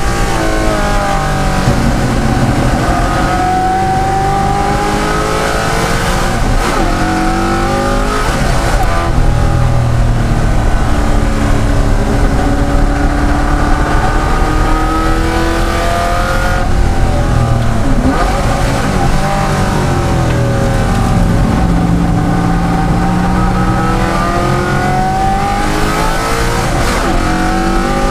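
De Tomaso Pantera's Ford V8 racing engine under hard acceleration. Its pitch climbs through the revs, then drops sharply at each gear change or lift, several times over.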